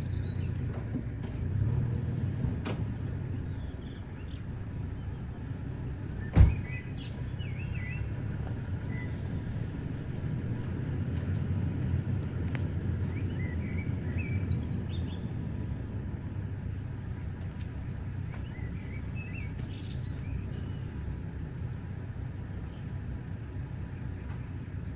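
Pickup truck engine running low and steady, with one sharp knock about six seconds in and birds chirping over it.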